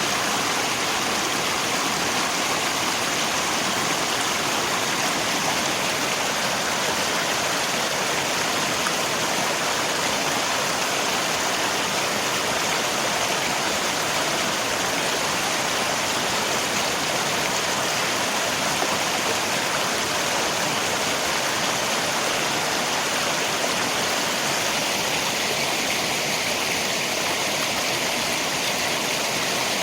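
River water rushing together with falling rain: a steady, unbroken hiss with no pauses or changes in level.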